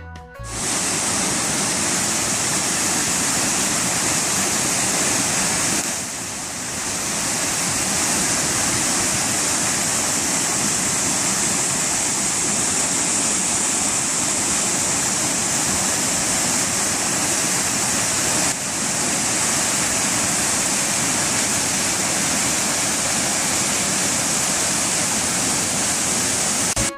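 Waterfall rushing close by, a loud, steady roar of falling water that eases briefly about six seconds in.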